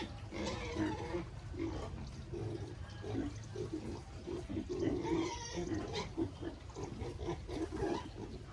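Pigs grunting in rapid, repeated short grunts, with higher squeals about half a second in and again about five seconds in, over a low steady hum.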